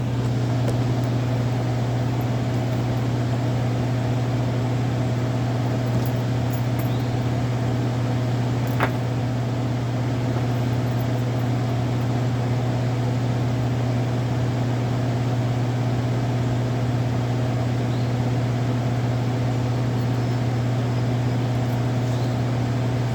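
A steady motor hum at constant speed, with a strong low drone and fainter higher tones, unchanging throughout; one faint click about nine seconds in.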